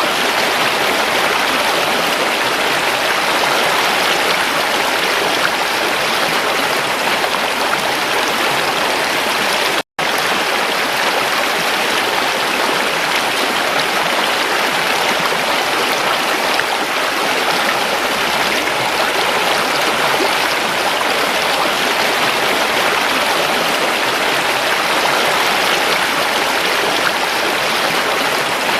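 Creek water running steadily over rocks, an even rushing and babbling. It cuts out for an instant about ten seconds in, then carries on unchanged.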